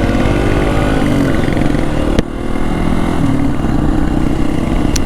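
Hero Xpulse 200 4V's single-cylinder engine running steadily through an aftermarket MW Performance full-system stainless steel exhaust. There is one sharp click about two seconds in.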